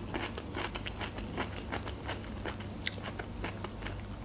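Close-miked chewing of flaky homemade puff pastry: soft, wet chewing with many small crunchy crackles, one sharper crackle about three seconds in.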